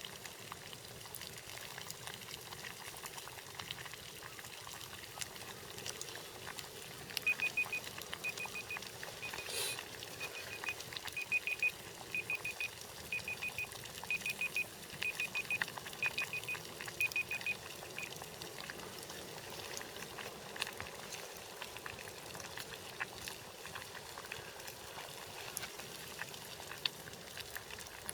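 Water bubbling and boiling in a pot for instant ramen, with scattered small crackles. From about a quarter of the way in to past the middle, short high-pitched notes repeat in groups of two or three.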